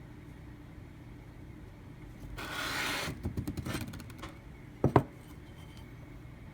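Handling noises: a short rub lasting under a second, a run of light clicks, then two sharp knocks in quick succession about five seconds in, over a steady low hum.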